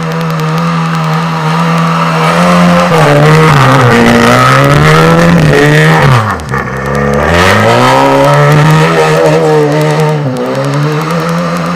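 Old rear-wheel-drive saloon car's engine held at high revs while the wheels spin on snow as the car slides in circles. The revs dip and climb back twice, about three and six seconds in.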